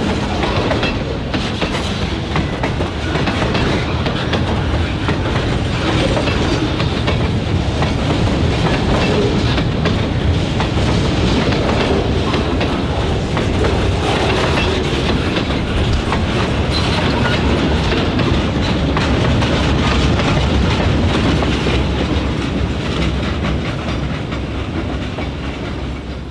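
Freight train rolling past, a steady loud rumble of the cars with their wheels knocking over the rail joints, easing off slightly near the end.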